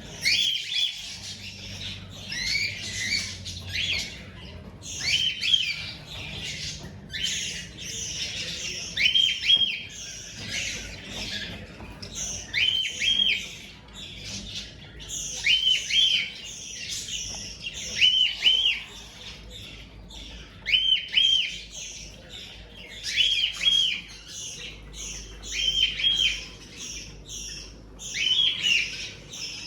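Cockatiels chirping over and over, short rising notes in clusters of two or three about every two seconds, over a continuous raspy, hissing chatter.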